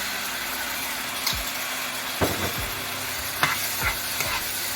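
Chicken curry sauce sizzling in a pot with a steady hiss, while a spoon stirs it, knocking against the pot about six times.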